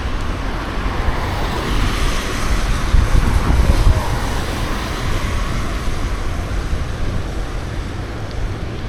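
Wind buffeting the microphone of a camera carried on a moving bicycle, mixed with road traffic noise that swells about two seconds in and fades again by about five seconds.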